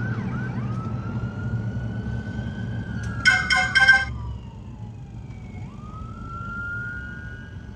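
Emergency vehicle siren wailing in slow rising and falling sweeps, over a low rumble of traffic. About three seconds in come three short, loud horn blasts.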